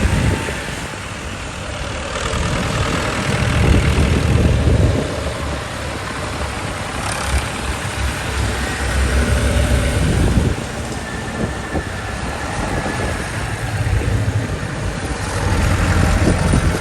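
Tractor engines running as a line of tractors passes by. The sound swells and fades several times as each one goes past.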